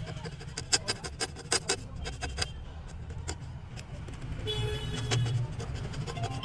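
A razor blade scraping across a phone chip's freshly reballed solder balls to trim them, a quick series of short scratchy clicks for the first couple of seconds, over a steady low hum. Background music comes in during the last two seconds.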